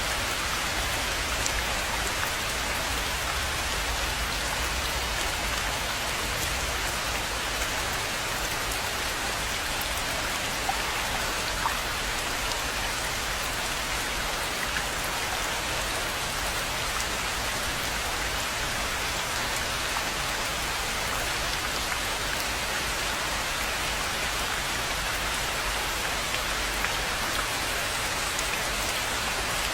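Steady rain falling on a rainforest pond, an even hiss of many drops with a few louder single drops standing out now and then.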